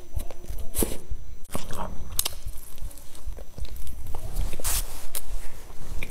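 Close-miked eating of a crumbly fried pastry with sesame seeds: chewing with a few sharp, crisp crunches at irregular intervals and another bite about four seconds in, over low mouth thumps.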